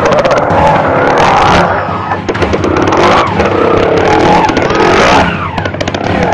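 Off-road motorcycle engine revving hard, its pitch sliding up and down again and again, with sharp clicks and clatter throughout.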